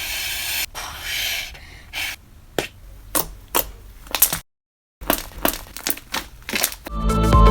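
Fluffy homemade slime being squished and stretched by hand, making a soft squelching hiss followed by a run of separate sharp pops and crackles. Music comes in near the end.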